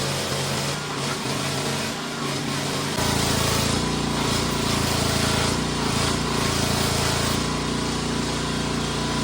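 Small gasoline engine, likely a petrol pressure washer's, running steadily; about three seconds in it becomes louder and deeper, as under load.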